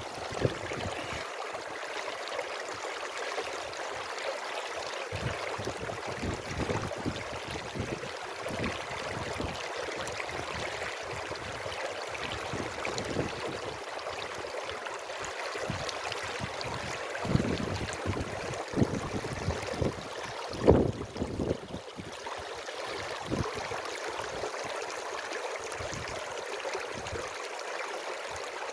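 Steady rush of running water from a stream, with wind buffeting the microphone in low gusts and a sharp knock about two-thirds of the way through.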